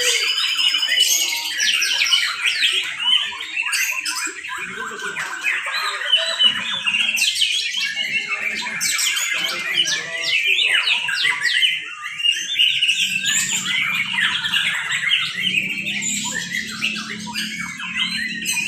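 Several caged white-rumped shamas (murai batu) singing at once in competition, a dense overlapping chorus of rapid whistles, trills and chatter. A faint low hum joins about two-thirds of the way in.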